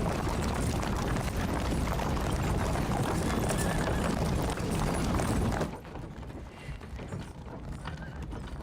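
Horses galloping, a dense patter of hoofbeats, loud for about six seconds and then quieter.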